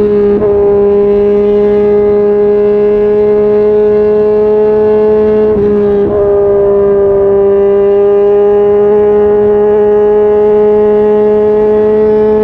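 Yamaha MT-09's inline three-cylinder engine running steadily under way at even revs. Its note breaks briefly twice, at the start and about six seconds in, and comes back slightly lower each time, then slowly rises.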